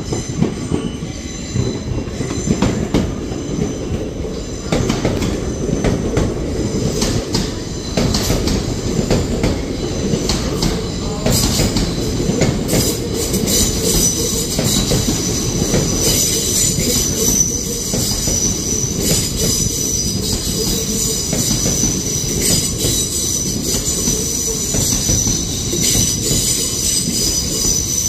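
LNER Azuma passenger train rolling slowly past along the platform: a steady rumble with scattered clicks from the wheels. Partway through, a high-pitched wheel squeal sets in and carries on.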